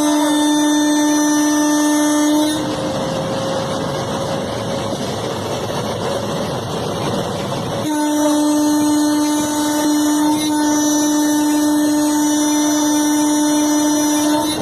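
WAP7 electric locomotive's horn sounding twice, a steady-pitched blast of about two and a half seconds, then a longer one of about six and a half seconds, over the steady running noise of the moving train.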